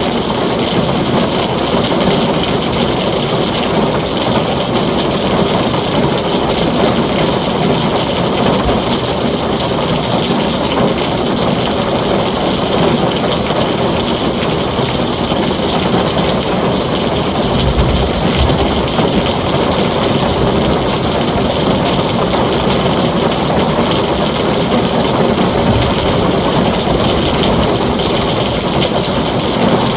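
Heavy rain falling steadily on a tin roof, with a brief low rumble of thunder about eighteen seconds in.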